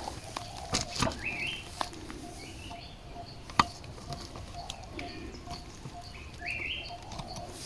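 Birds calling in forest: a steady run of short, evenly repeated low notes, with a stepped, rising chirpy phrase heard twice, about a second in and again near the end. A few sharp knocks and rustles come through, the loudest about halfway.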